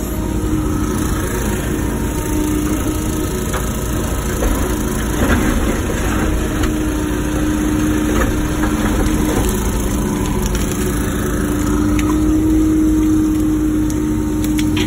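Wacker Neuson ET145 excavator's diesel engine running as the machine works, its pitch rising and settling under hydraulic load. A few sharp knocks near the end.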